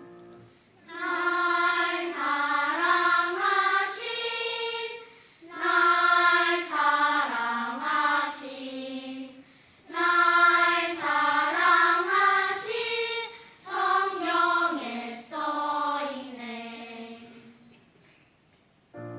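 Church choir singing unaccompanied in four phrases, each a few seconds long with a short breath between. The sound trails off near the end.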